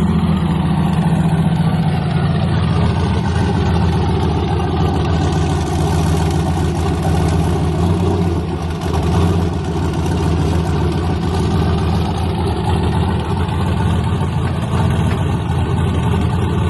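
A drag-race S10 truck's engine idling steadily and loudly, with a swell of added noise midway.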